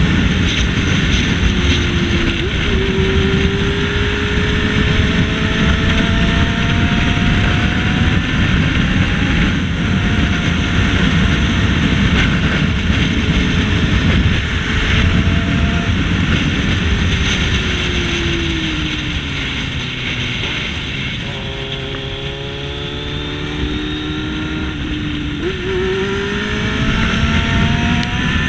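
Motorcycle engine under way, its pitch rising as it accelerates and falling as it slows, with steps at gear changes, under heavy wind rush on the camera microphone. Around twenty seconds in it slows and quietens, then pulls away again with rising revs.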